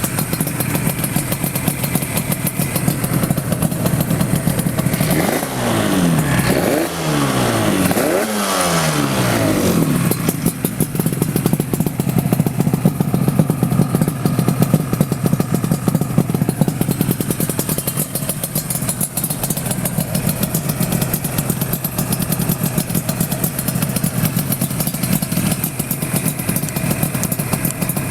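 Yamaha RZ two-stroke parallel-twin engine, 350 cc in an RZ250 frame, running through expansion-chamber exhausts. It idles, is blipped several quick times between about five and ten seconds in, and then settles back to a steady idle.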